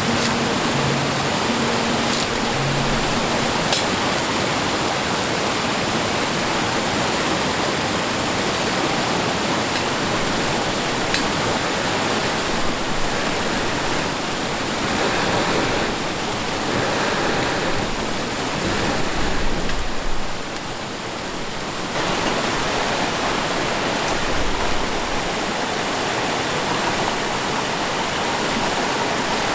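River water running steadily, an even rushing sound, with a brief drop in level about two-thirds of the way through.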